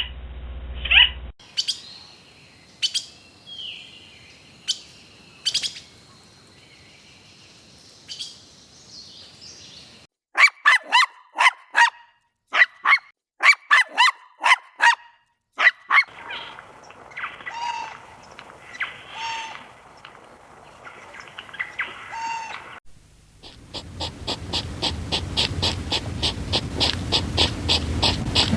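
A string of separate animal-call clips, mostly chirps: scattered sharp chirps, then a quick run of short sharp chirps, then a few softer calls, and near the end a fast, even series of calls over a low hum.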